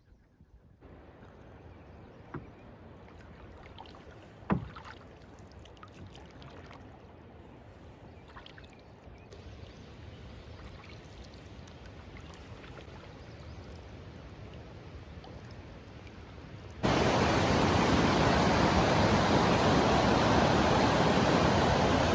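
Canoe being paddled on calm water, quiet splashing with a couple of sharp knocks, likely the paddle against the hull. About 17 seconds in it cuts suddenly to the loud, steady rush of fast-running water at a rapid swollen by high water.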